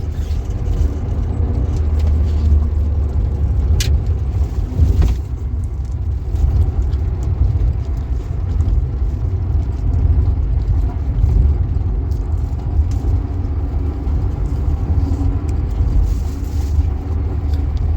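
Car running and driving, a steady low rumble throughout, with a sharp click about four seconds in.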